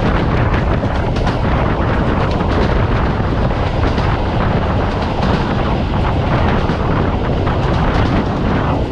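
Passenger train running at speed, heard from a coach window: a loud, steady rumble of wheels on the rails with rushing air and scattered clacks and knocks from the track.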